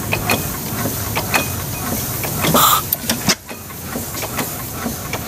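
Old stationary engines running, with irregular clicks and knocks over a steady mechanical din, and a short burst of hiss about two and a half seconds in.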